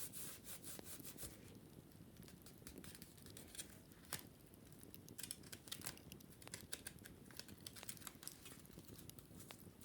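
Wicker basket being handled and scratched during cleaning: faint, irregular crackling clicks and light scratching, thickest in the second half.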